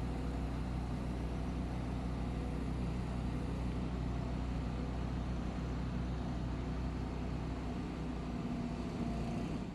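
Heavy vehicle engine running steadily at a constant speed, a low even drone with no revving.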